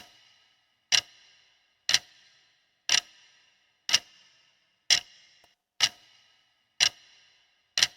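Countdown timer sound effect: a clock ticking about once a second, each tick sharp with a brief metallic ring.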